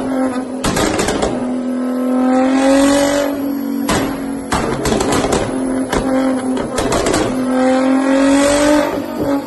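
Nissan GT-R R35's twin-turbo V6 revved hard on a chassis dyno, climbing in pitch three times, with sharp exhaust pops and bangs as it spits flames from the tailpipes between pulls.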